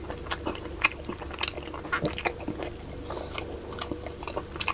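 A person chewing a mouthful of food, with many irregular wet smacks and clicks of the mouth.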